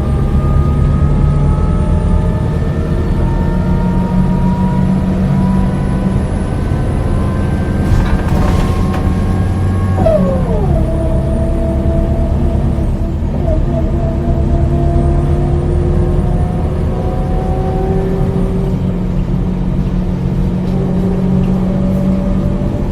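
A Scania L94UB bus's DC9 9-litre six-cylinder diesel and ZF 4HP-500N automatic gearbox pulling away under power, the engine and driveline whine rising steadily. About ten seconds in, the automatic changes up and the pitch drops sharply, then climbs slowly again. A short hiss comes just before the shift.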